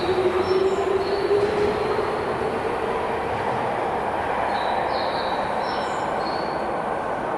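Toei Mita Line subway train pulling away from a station platform: the electric motors' whine rises slowly in pitch over the first second or so over a steady wheel-and-car rumble, with short high wheel squeals near the start and again a little past the middle.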